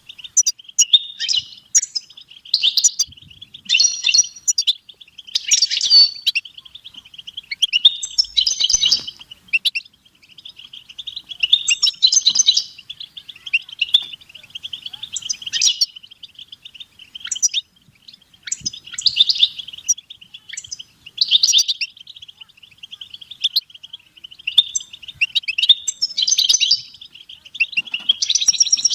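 European goldfinch singing: a continuous twittering song of rapid trills and chirps, broken by louder bursts of higher notes every second or two.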